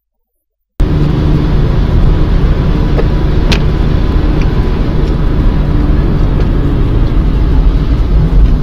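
Loud, steady low rumble of a moving road vehicle's engine and road noise, with a few faint clicks. It starts abruptly under a second in, after a moment of dead silence.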